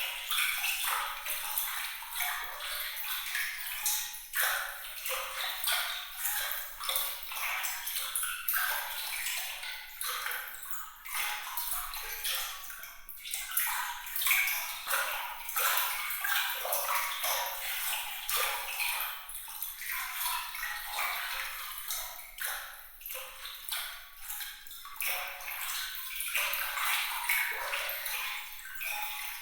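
Continuous bright, high-pitched water sound: a dense patter of small splashes and droplets that rises and falls without pause, with no low rumble beneath it.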